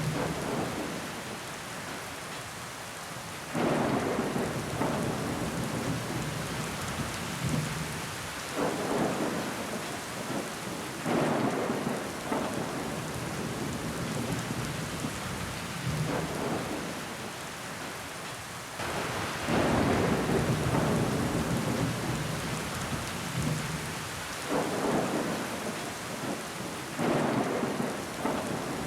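Steady heavy rain falling against a window, swelling louder and easing off again every few seconds.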